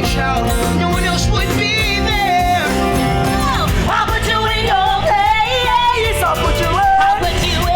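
Musical theatre song: singers with band accompaniment, the singing growing stronger about halfway through.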